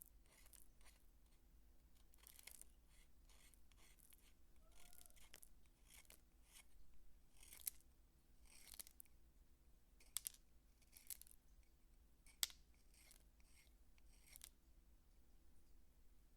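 Dry bar soap being worked by hand: an irregular series of faint, crisp scraping and crunching strokes, with a few sharper clicks among them.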